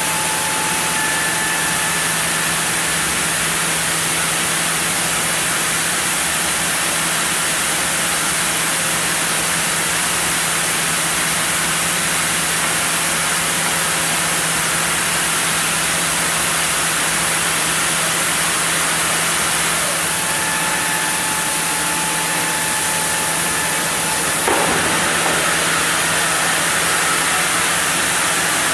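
Sawmill machinery running steadily: a constant hum under a loud, even hiss. A brief knock comes about 24 seconds in, after which the tone shifts slightly.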